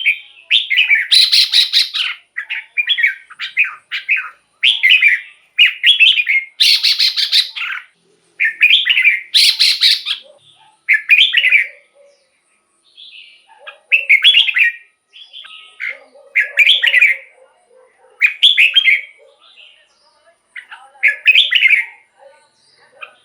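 Red-whiskered bulbul singing short, rich warbled phrases. In the first half the phrases come close together, with a few loud, harsh, buzzy notes among them. After that, single phrases come every second or two.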